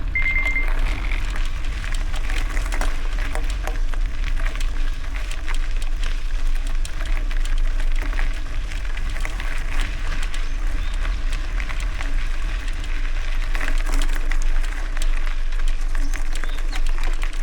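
Riding a bicycle on gravel: heavy wind rumble on the microphone over a steady crackle and rattle of tyres and bike. A short high electronic beep sounds right at the start.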